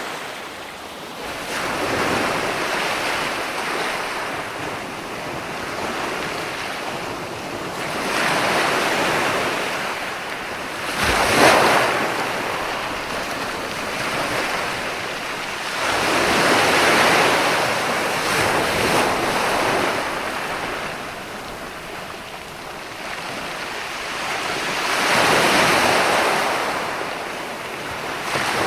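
Ocean waves breaking on a shore. The surf swells and falls back every several seconds, with one sharper crash about eleven seconds in.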